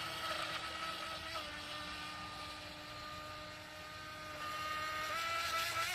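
Radio-controlled racing boat's motor running with a steady high whine, its pitch stepping up slightly twice. It fades a little midway and grows louder again near the end, as if the boat runs away and comes back.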